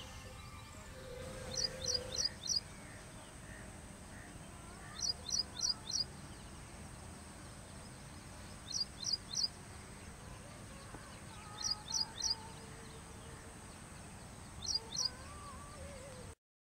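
A bird calling in short bursts of three or four sharp, high chirps, each burst a few seconds after the last, over a steady outdoor background hiss. The sound cuts off suddenly near the end.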